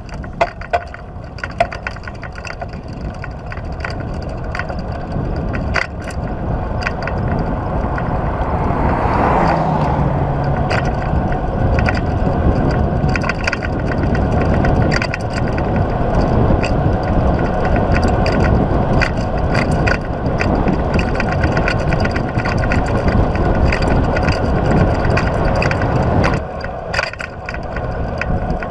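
Rush of wind and road noise from a touring bicycle rolling fast down a grade, building over the first several seconds, with many sharp clicks and rattles from the bike and road; it drops off suddenly near the end.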